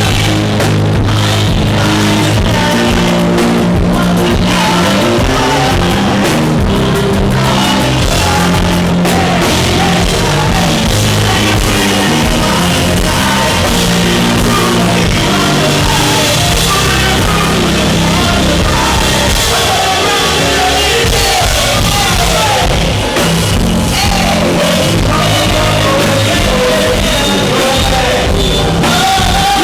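Live band playing loud music, with drums, bass and guitar and a voice singing over it, the singing line clearer in the second half. The recording is loud and rough, taken from a microphone overwhelmed by the club's sound system.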